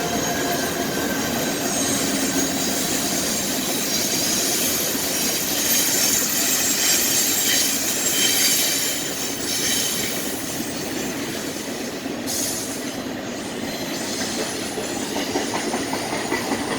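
Freight train cars rolling past at steady speed, with wheels clicking over rail joints and faint high-pitched wheel squeal.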